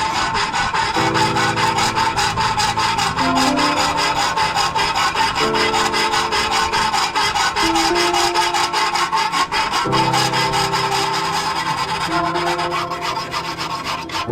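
Fast, even rasping strokes of hand abrasion on metal, as in filing or sanding rust off the cleaver's blade, over background music.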